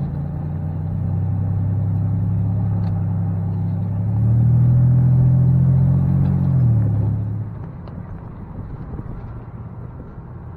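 Car engine running with road rumble, its note stepping up about four seconds in, then dropping away around seven seconds to a quieter low hum.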